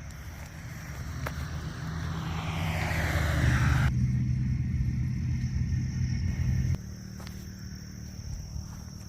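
A motor vehicle approaching and passing close by: its noise swells, falls in pitch as it goes past, and its low engine hum stops abruptly about seven seconds in.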